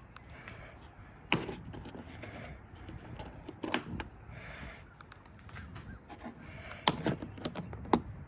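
Product packaging being handled and opened: irregular sharp clicks and taps with some rustling, the loudest taps about a second in and twice near the end.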